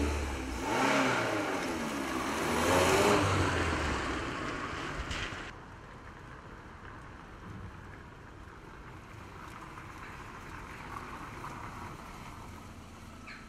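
Car engine revving twice at the tailpipe, its pitch rising and falling with each rev. About five and a half seconds in the sound drops suddenly to a much quieter car driving slowly up a street.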